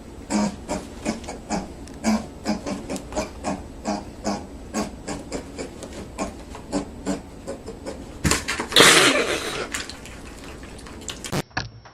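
An animal making short sounds in a quick, steady series, about three a second, with a louder, harsher burst of noise about eight seconds in. It cuts off abruptly near the end.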